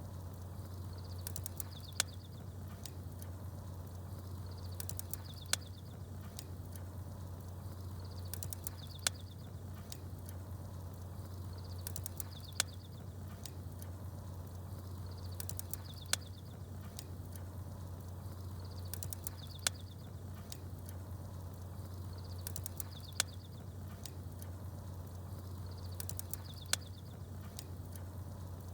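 Crackling fire and small birds chirping. The same short pattern of a sharp crackle and a few high chirps repeats about every three and a half seconds over a steady low hum.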